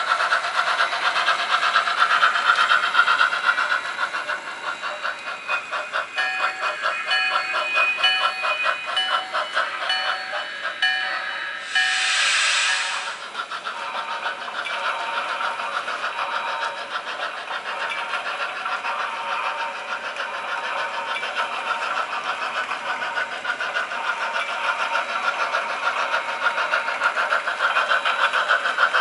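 HO scale model steam locomotive's sound system running: rapid steam chuffing throughout, with a whistle sounding on and off between about 6 and 11 seconds in and a short burst of steam hiss about 12 seconds in.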